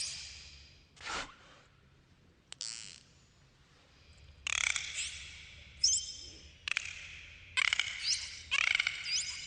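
Dolphins whistling and clicking: short bursts of squeaky rising and falling whistles mixed with rapid click trains, a few at first, then coming about once a second from around the middle on.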